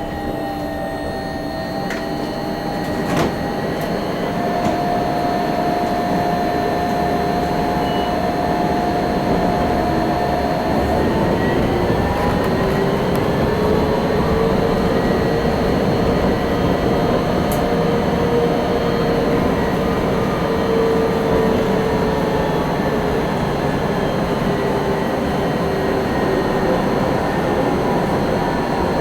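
AnsaldoBreda Sirio tram running on its line, with the steady whine of its electric traction drive over the rolling noise; the whine climbs in pitch about twelve seconds in as the tram gathers speed, then holds.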